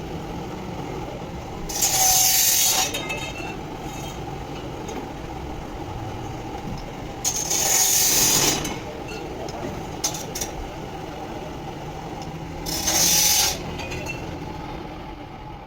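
Three short bursts of harsh hissing noise from workshop tools during gearbox repair, each about a second long and roughly five seconds apart, over a steady low mechanical hum.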